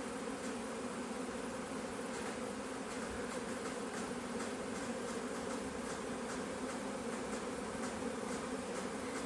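A big swarm of honeybees flying in to settle in an empty bee box: a dense, unbroken buzzing hum of many wings at a low and a slightly higher pitch.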